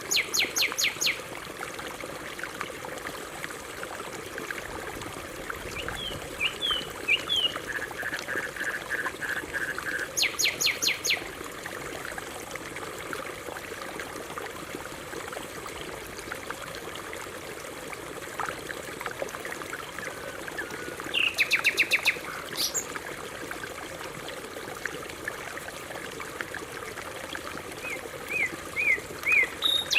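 Canary singing in short bursts of rapid repeated notes, chirps and a held trill, spaced several seconds apart, over the steady trickle of a running stream.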